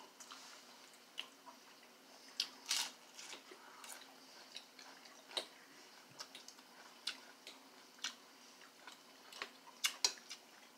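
A person chewing and biting crunchy food close to the microphone: irregular crisp crunches and clicks, loudest about two and a half seconds in and again near the end.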